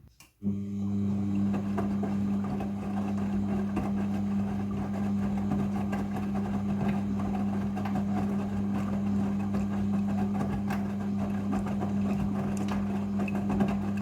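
Front-loading washing machine running its rinse cycle: a steady motor hum from the turning drum, starting after a brief gap just at the beginning.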